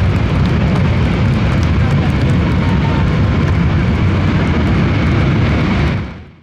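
Loud, steady roar of a Boeing C-17 Globemaster III's four Pratt & Whitney F117 turbofan engines at high power in reverse thrust, braking the aircraft on a short-field landing rollout. The sound fades out quickly near the end.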